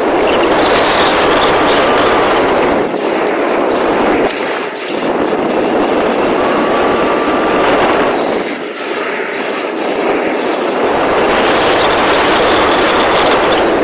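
Rlaarlo XBS RC car driving hard over rough ground: a loud, steady rushing rattle of tyres and chassis, easing off briefly twice.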